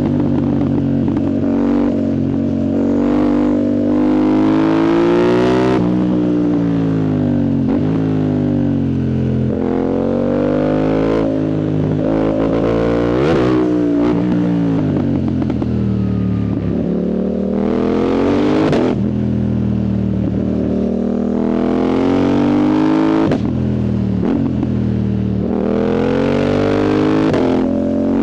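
Yamaha MT-07's CP2 parallel-twin engine through a full exhaust with the dB killer removed, under hard riding: the pitch repeatedly climbs under throttle and drops away, broken several times by short sharp cracks as it shifts or the throttle closes.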